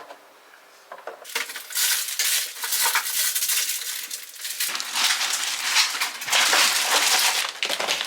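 Kitchen clatter: dishes and utensils clinking and rattling, starting about a second in and busier from about halfway.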